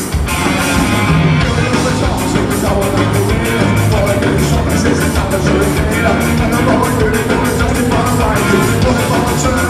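Ska-punk band playing live at full volume: electric guitar, bass and drums with a fast, even beat, singing over the top.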